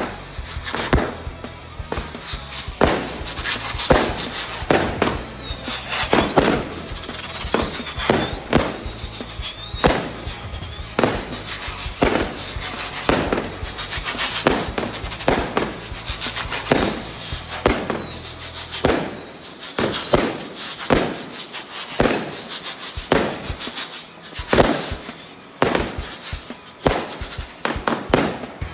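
Fireworks going off in a dense, irregular run of sharp bangs and crackles, several a second, with short high whistling glides among them. Background music plays underneath.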